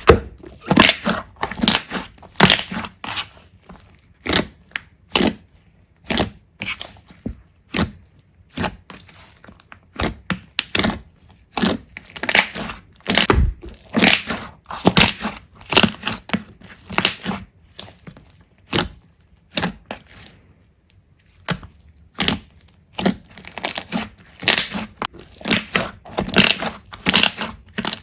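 Slime being squeezed and pressed by hand, giving off irregular crackling and popping clicks in quick clusters with brief pauses between them.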